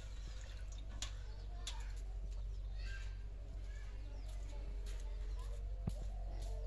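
Birds calling faintly over a steady low rumble, with a couple of sharp knocks.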